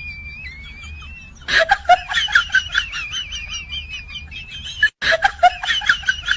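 A bird's rapid warbling chirps start suddenly about a second and a half in. They cut out briefly near five seconds in and then start again. Before them a thin, faint whistle rises slowly.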